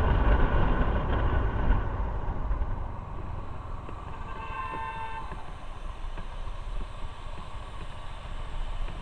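Road noise from a moving motorcycle: a heavy rumble that fades over the first few seconds, then a vehicle horn sounding once for about a second, some four and a half seconds in.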